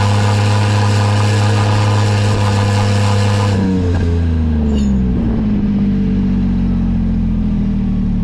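Daihatsu Hijet kei truck's three-cylinder engine through a Rosso Modello COLBASSO aftermarket muffler, held at steady raised revs, then dropping back about four seconds in and settling to a steady idle.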